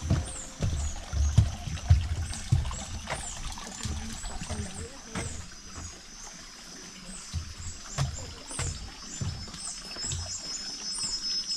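Water trickling and splashing, with irregular low thumps and a few clicks, under short high chirps that fall in pitch and repeat a few times a second.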